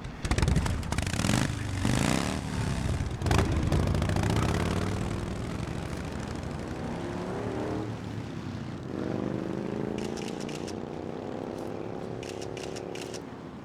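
Motorcycle engine revving and pulling away, loudest in the first few seconds, then running steadily with its pitch climbing again near the end as it accelerates.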